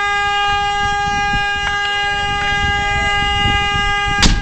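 A vehicle horn blaring one unbroken steady note, with a single sharp crack near the end.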